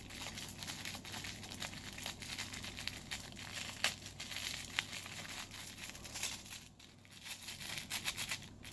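MRE crackers being crushed by hand inside their plastic packet: the wrapper crinkling and crackling in irregular bursts as the crackers crunch, easing off near the end.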